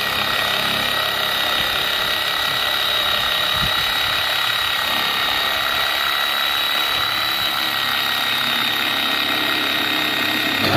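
An electric motor running steadily with a constant high whine. It is switched off at the very end and winds down in pitch.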